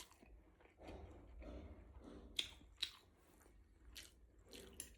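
A person quietly chewing a mouthful of noodles, with a few short sharp clicks about two and a half, three and four seconds in.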